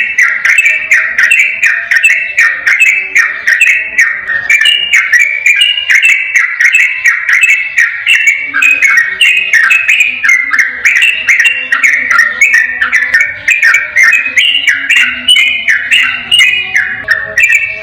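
Yellow-vented bulbul (trucukan) singing a long, rapid run of bubbly whistled notes without a break, in the fast 'ropel' style.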